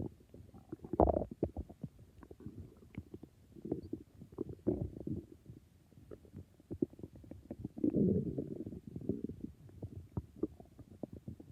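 Human stomach growling: irregular gurgles and bubbling pops in clusters, strongest about a second in and again around eight seconds in.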